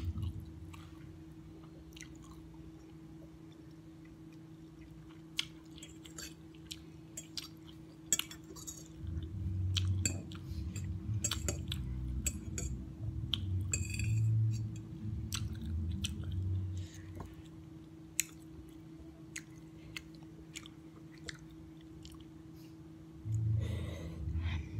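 Close-up eating sounds of chewing noodles, with scattered sharp clicks of a metal fork against a ceramic plate as the noodles are twirled and lifted. The chewing comes in bursts, strongest in the middle stretch and again near the end.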